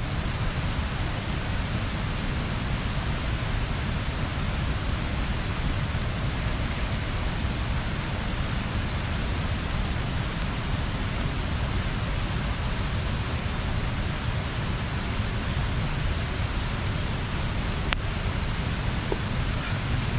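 Bonfire burning with a steady rushing hiss, broken by a few faint pops, mostly near the end.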